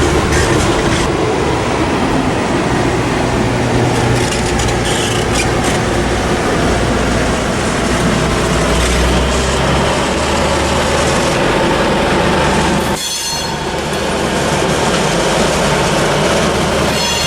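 Diesel-hauled freight train passing close by: a low locomotive engine rumble over the steady noise of wheels rolling on rail. The sound dips briefly about thirteen seconds in, and high wheel squeal begins near the end.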